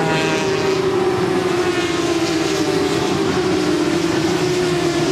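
Several 400 cc supersport racing motorcycle engines running at high revs together, a steady high-pitched engine note with the pitch shifting slightly as the bikes change speed.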